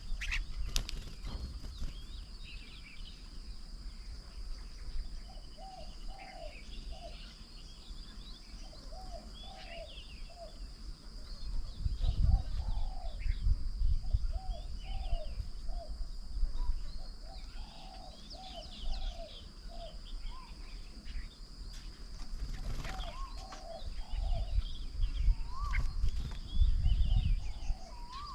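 Garden birds calling around a bird table: a low call repeated in short groups of three or four over and over, with many higher chirps and whistles between, over a steady high-pitched hum. Low rumbling noise swells in the middle and again near the end.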